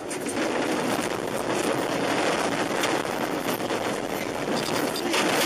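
Steady, loud rushing road noise of a moving vehicle, an even roar of tyres, wind and engine with no distinct impact.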